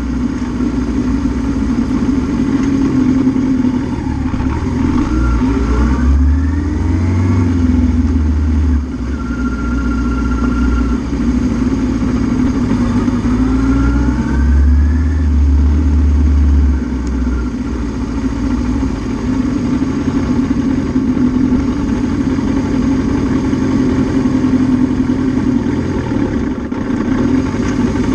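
Suzuki GS650G's air-cooled inline-four engine running steadily, its revs rising twice, about five seconds in and again about thirteen seconds in.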